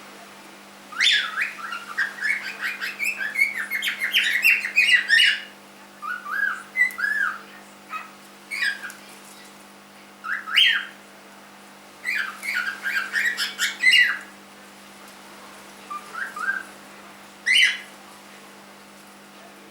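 Young cockatiel, about three months old, chirping and whistling in quick runs of rising and falling notes: one long run near the start, then shorter bursts spaced a second or two apart.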